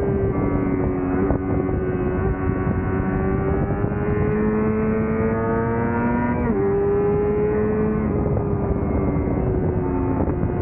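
Yamaha YZF-R6 600 cc inline-four with an aftermarket Laser exhaust running hard at high revs, its pitch climbing slowly as the bike accelerates, then a sudden jump in pitch about two-thirds through as it changes gear, with wind rushing past.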